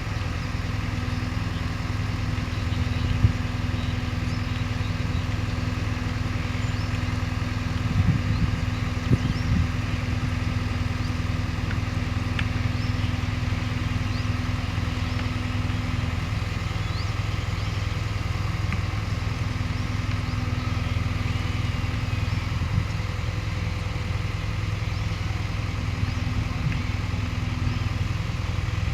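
JCB 3DX backhoe loader's diesel engine running steadily, with a few short knocks about three seconds in and again around eight to nine seconds in.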